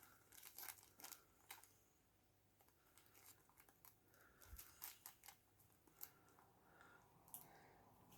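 Near silence with a few faint, scattered clicks and rustles of model packaging and its small plastic spares bag being handled.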